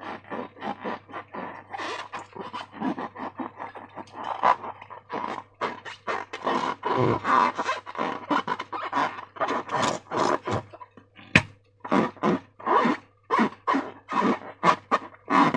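Slime being squeezed and worked by hand, a continuous irregular run of short squishing sounds, several a second, with one sharp click near the end. A low steady hum sits underneath.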